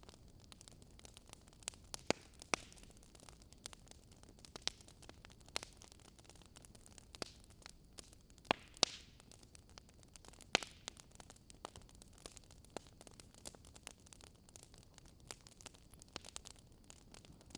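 Wood fire crackling: irregular sharp pops and snaps over a faint steady hiss, with a handful of louder pops scattered through.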